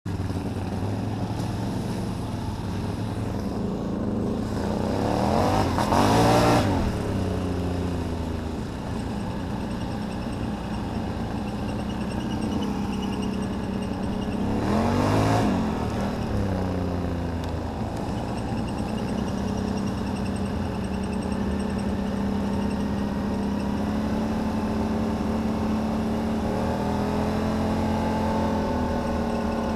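2009 Can-Am Renegade 800 ATV's V-twin engine running with its CVT making an odd noise that the owner places in the CVT housing rather than a failing CV shaft. The engine idles, is revved up and back down briefly twice, and its note climbs a little near the end.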